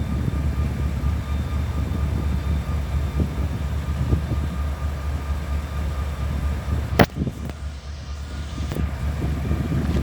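Diesel locomotive idling after a fresh start-up: a steady low rumble with a faint steady tone above it. A single sharp knock comes about seven seconds in.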